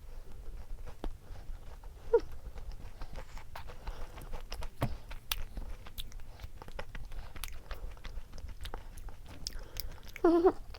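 Close-miked chewing and biting, with many small crisp crunches and mouth clicks, and a short pitched sound just before the end.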